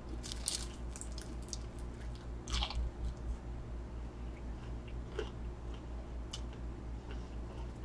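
Mouth sounds of biting and chewing crisp fried food, an egg roll. There is a crunchy bite about half a second in and another around two and a half seconds, then quieter chewing with a few faint crunches.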